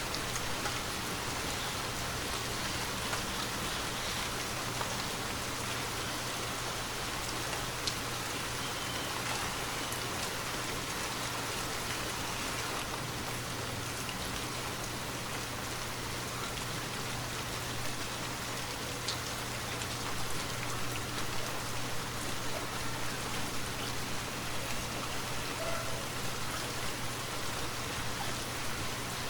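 Steady, continuous rainfall, with a few single drops ticking sharply close by.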